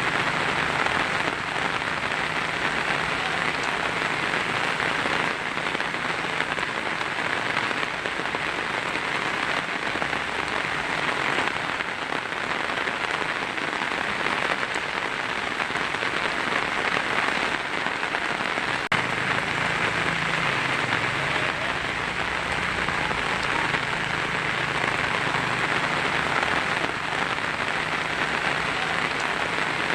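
Heavy rain falling steadily on a tin roof, a dense, even patter of drops with no break, and a single brief tick about two-thirds of the way through.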